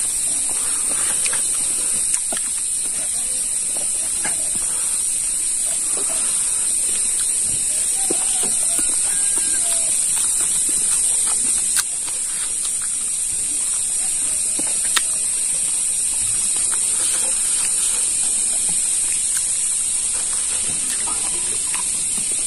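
Close-up chewing and lip-smacking as pork trotter and rice are eaten by hand, with a few short clicks. Under it a steady high-pitched hiss, the loudest sound, runs unbroken.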